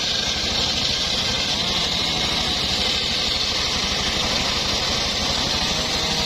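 Home-built engine-driven circular sawmill running steadily, its motor pulsing evenly under a constant high hiss from the spinning blade.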